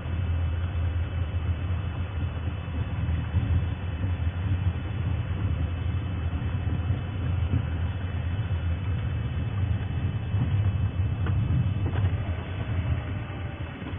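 Safari game-drive vehicle's engine running steadily with a low, even rumble.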